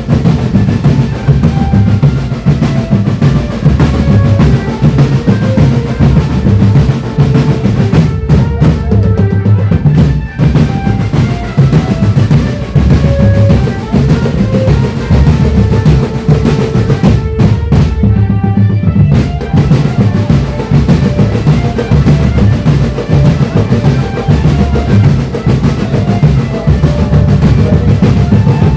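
Marching drum band playing a dance tune: bass drums and snare drums beating continuously, with a melody of short notes above them. The bright top end drops out twice for a second or two.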